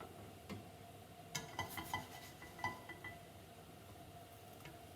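Light clinks of a utensil knocking on cookware, a quick run of four or five about a second and a half in and one more near three seconds, each with a short ring, over a faint steady hum.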